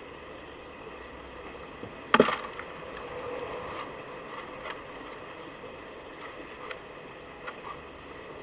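A single sharp, loud knock with a brief clatter about two seconds in, followed by a few faint clicks and taps, over a steady background hiss.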